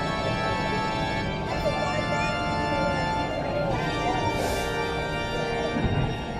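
Organ music with long held chords at a steady level.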